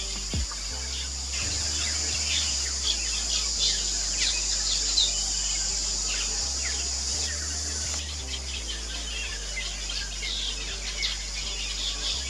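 Fairy martins twittering: many short, quick chirps, over a steady high hiss.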